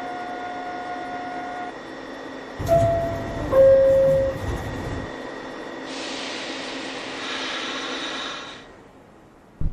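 NYC subway train doors closing: a thud as they shut, a two-note falling door chime, then a hiss of compressed air for about two and a half seconds before the sound drops away.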